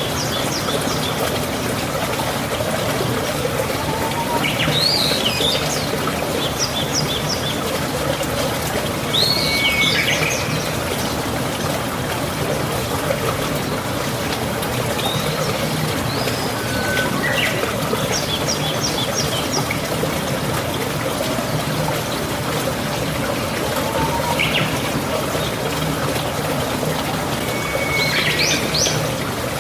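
Steady rush of flowing water, with a songbird calling over it several times in short whistled and rapidly repeated phrases.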